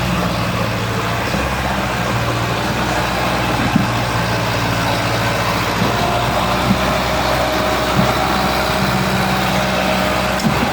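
Sonalika DI 50 tractor's diesel engine running steadily under load as it powers the trolley's hydraulic tipping to unload soil.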